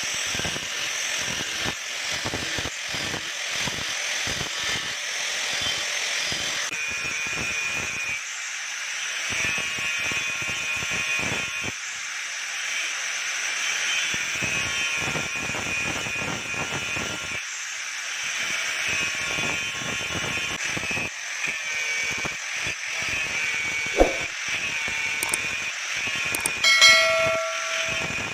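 The round blade of a flour mill grinder is being sharpened: a steady metal-grinding noise with irregular scraping strokes. There is a sharp click about 24 seconds in and a brief ringing tone near the end.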